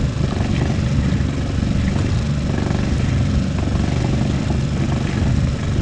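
Sailing yacht's inboard engine running steadily under way, a low, even rumble.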